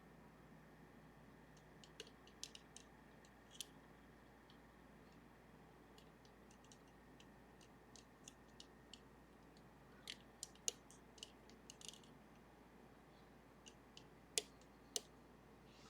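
Faint, irregular small metallic clicks and ticks of lock picks working the levers of a Sargent and Greenleaf 4440 safety deposit box lever lock as its guard-side lever pack is picked. A few sharper clicks come about ten seconds in and twice near the end.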